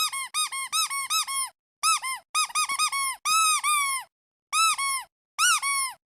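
Squeaky duck toy squeezed over and over, giving runs of short squeaks that each rise and fall in pitch, in several quick bursts with brief pauses between.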